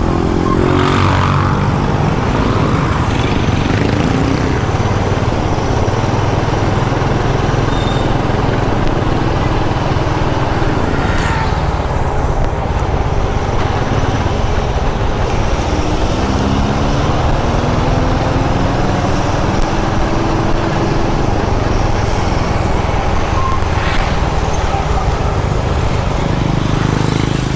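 Motorcycle running along a road, a steady low rumble with wind noise; past the middle the engine note climbs a few times as it picks up speed.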